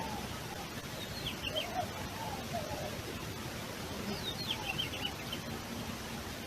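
Birds calling over a steady background hiss: two short runs of quick, high downslurred notes, about a second in and again about four seconds in, with lower wavering calls between them.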